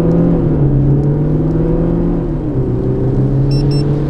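Tuned Audi A6 3.0 TDI V6 diesel under full-throttle acceleration, heard from inside the cabin, its pitch climbing, dropping once at an automatic upshift about two seconds in, then climbing again. Two short electronic beeps near the end as the performance timer reaches 100 km/h.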